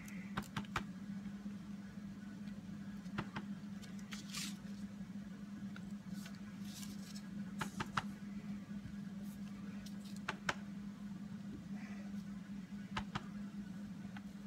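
Scattered light clicks and taps of rubber stamps and ink pads being handled on a craft table, over a steady low hum.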